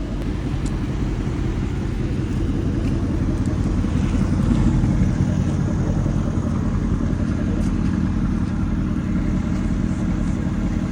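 A car engine running steadily, a little louder about halfway through.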